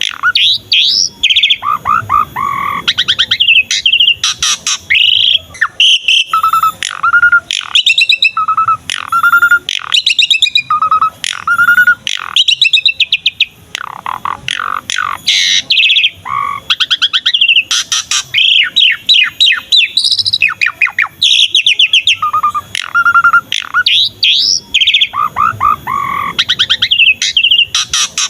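Pied starling (jalak suren) singing vigorously and continuously: loud whistles, quick runs of repeated notes and notes sliding up and down, with only brief pauses between phrases.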